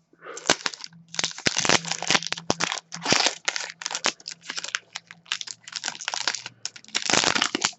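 Foil wrapper of a hockey card pack being torn open and crinkled by hand, a run of irregular crackles and rustles.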